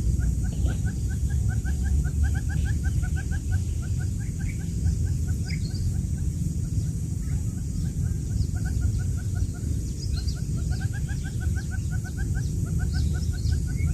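Newly hatched quail chicks peeping in fast runs of short, high chirps, several a second, over a steady low rumble.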